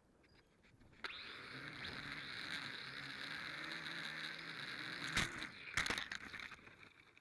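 Radio-controlled model aircraft's motor running, its pitch wavering, starting suddenly about a second in. Two sharp knocks come near the end.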